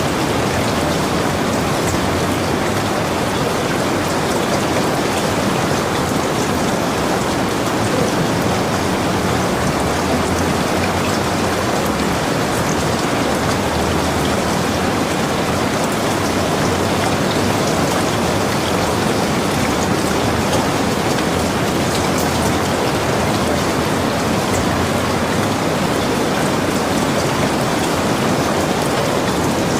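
Steady rain falling, an even wash of many drops with fine scattered patters on a surface.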